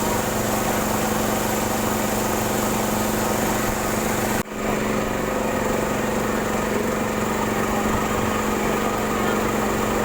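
Boat engine running at a steady speed with a constant drone, briefly cut off about four and a half seconds in and then back at the same level.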